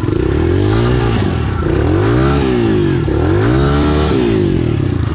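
Enduro dirt bike engines revving up and down, the pitch rising and falling several times.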